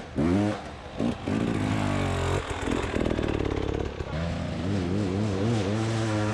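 Beta 300 RR two-stroke dirt bike engine revving up and down with the throttle, its pitch rising and falling repeatedly. The note drops briefly just after the start and turns rough and rapidly pulsing for about a second and a half in the middle.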